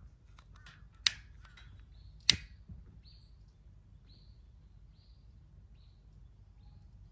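Two loud sharp pops and a few fainter clicks in the first couple of seconds, then a bird calling a short high note about once a second over a faint low rumble.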